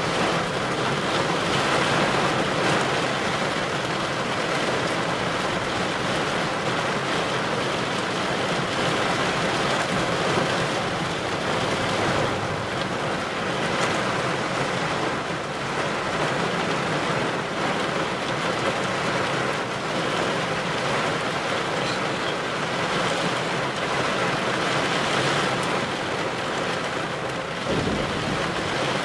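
Steady heavy rain from a severe thunderstorm, a constant even rush of noise.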